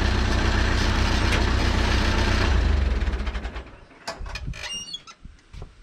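Tractor engine idling steadily, then shut off about three seconds in and running down to a stop. A few sharp clicks and knocks follow.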